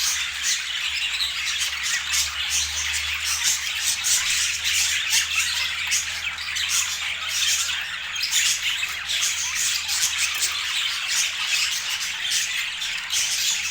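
Budgerigars chattering and squawking without pause, a dense stream of short, high, scratchy calls.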